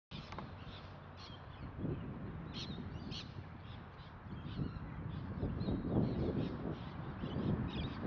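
Birds calling in short, high, repeated calls, several every second, over a steady low rumble.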